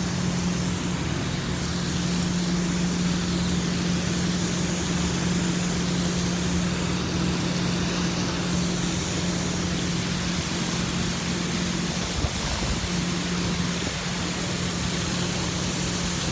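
Heavy rain falling steadily, with a steady low hum underneath that dips briefly about twelve seconds in.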